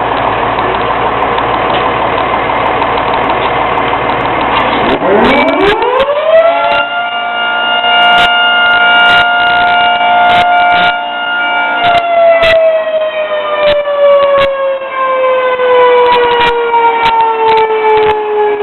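Fire engine's mechanical siren over a running engine: the siren winds up to a steady wail about five seconds in, holds for several seconds, then winds slowly down in pitch as it coasts.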